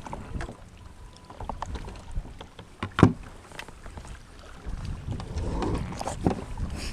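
Knocks and clatter of gear being handled on a fishing kayak, with a low wind rumble on the microphone. A sharp knock about three seconds in is the loudest, and a cluster of knocks comes near the end.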